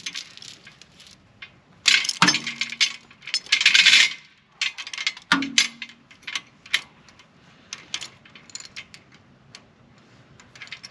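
Steel logging chain clinking and rattling as it is handled, with louder clanks around two, four and five seconds in and lighter scattered clinks after.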